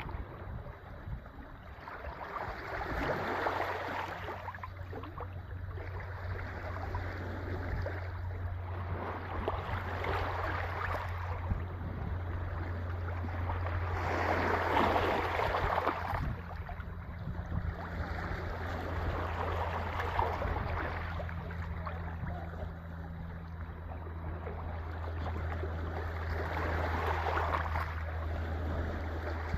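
Sea waves breaking and washing in, swelling and easing every few seconds. A steady low hum runs underneath from about three seconds in.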